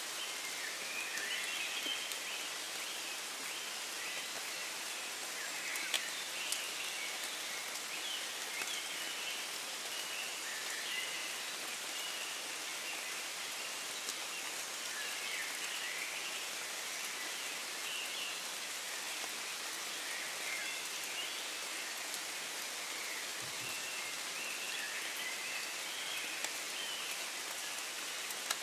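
Steady rain falling through woodland, pattering on leaves, with a few sharper, louder drops. Birds of the dawn chorus sing in short chirps behind the rain.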